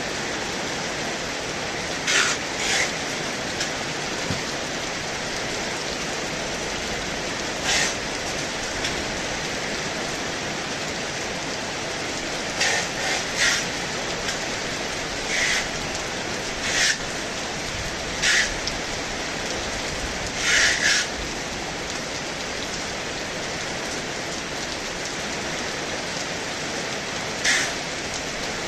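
Heavy rain falling, a steady even hiss, with short louder bursts of hiss every few seconds.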